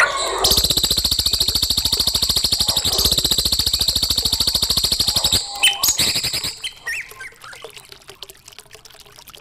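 Recorded songbird song used to tutor young birds: a long, very fast trill of evenly spaced notes lasting about five seconds, then a few short chirps and a quieter stretch.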